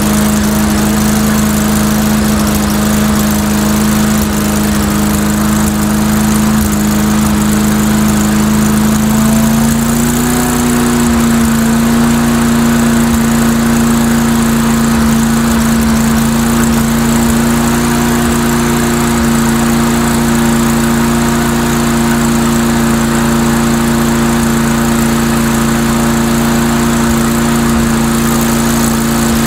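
Small single-cylinder lawnmower engine running steadily; its speed steps up slightly about ten seconds in as the throttle is raised, then holds steady.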